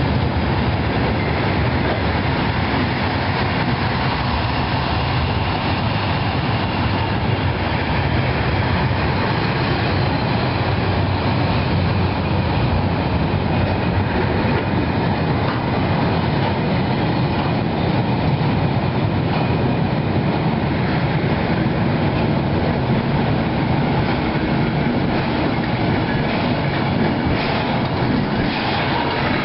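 Container freight train's loaded flat wagons rolling past close by: a steady rumble of steel wheels on rail, with a few sharper clicks near the end.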